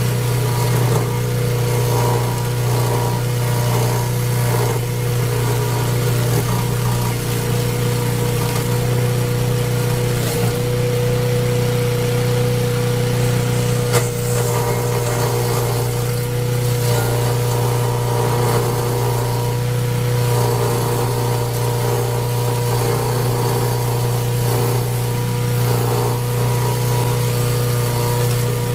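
Engine of a homemade wood-processing machine running steadily at an even speed, with a deep, constant hum. A single sharp click sounds about halfway through.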